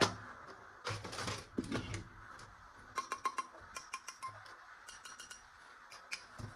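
Hard plastic clicks and short rattles from toy guns being handled, with a quick run of clicks about three seconds in.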